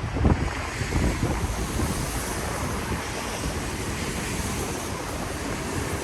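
Steady hiss of a rainy city street, rain with traffic on wet pavement, with wind buffeting the microphone in the first moments.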